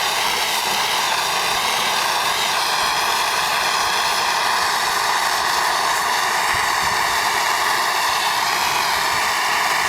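Steady, loud rushing hiss of a heating tool held on the oil tank's fuel line, thawing water from condensation that has frozen in the line where it leaves the tank.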